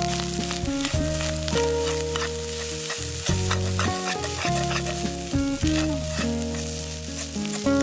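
Fried rice sizzling as it is stir-fried in a pan, with many quick scrapes and taps of the spatula, under background music with held bass notes.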